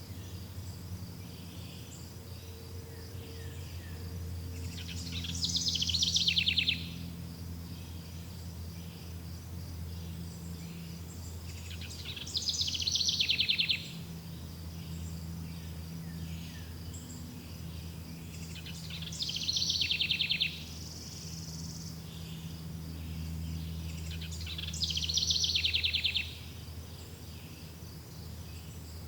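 A songbird sings the same short, loud, falling trilled phrase four times, about every seven seconds, over a steady high-pitched insect drone and a low background rumble.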